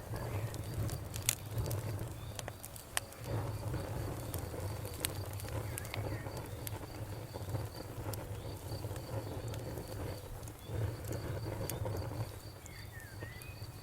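Campfire burning, with irregular sharp crackles and pops over a low, steady rumble of flame. A faint insect keeps up an even, pulsing chirp in the background.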